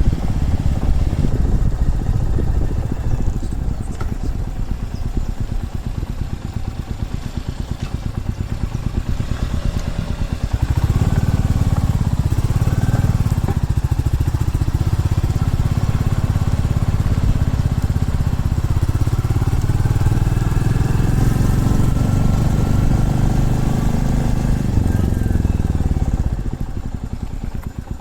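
Single-cylinder motorcycle engine under way, running quieter at first, then speeding up with a rising pitch about ten seconds in and holding steady before easing off near the end.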